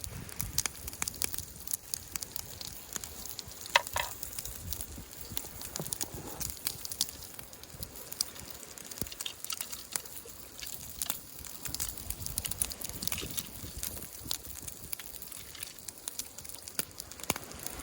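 Wood campfire crackling, with irregular sharp pops and snaps over a low hiss; one louder snap about four seconds in.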